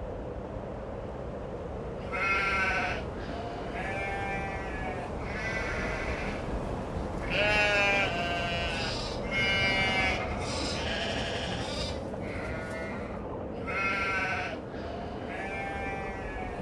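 A flock of sheep bleating, about ten calls starting about two seconds in, over a steady background hiss.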